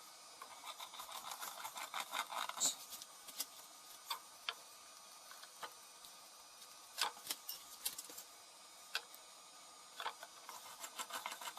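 Scattered small clicks and taps with some light scraping, typical of handling small parts, screws and an epoxy mixing stick at a workbench; the sharpest tick comes a little under three seconds in, and the clicks come faster near the end.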